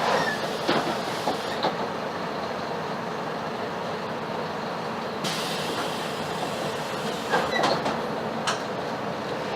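Mercedes-Benz OF-1721 bus running on the move, heard from inside the cabin: a steady diesel engine and road noise, with sharp rattles from the body a few times, about a second in and again near the end.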